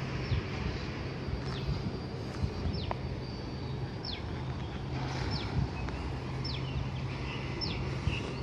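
A bird calling over and over with short, high whistles that fall in pitch, about one a second, over a steady low hum.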